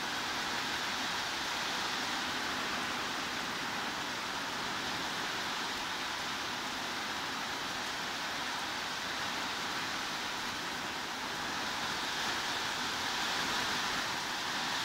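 Steady heavy rain: an even hiss with no single drops, thunder or other events standing out.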